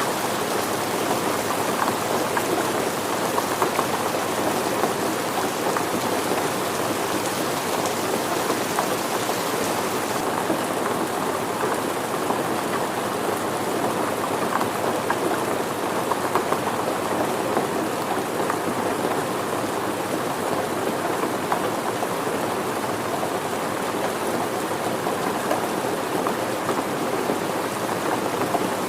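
Steady rain falling, a dense, even patter of drops with no let-up. The high hiss softens a little about ten seconds in.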